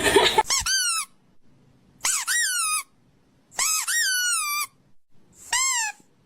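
A small pet's high squeaky calls, four in a row with short pauses between them; each call bends in pitch, mostly falling away at the end.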